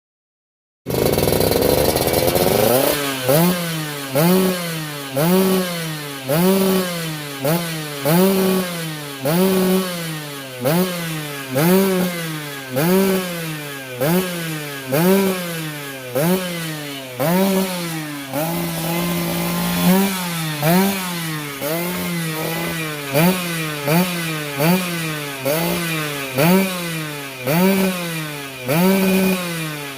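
Vespa PTS scooter's two-stroke engine, bored up to 152cc, revved again and again through a PRP Racing MDM aftermarket exhaust. It starts suddenly about a second in, then revs up and drops back about once a second. It holds steady at higher revs for a couple of seconds near the middle and falls away at the end.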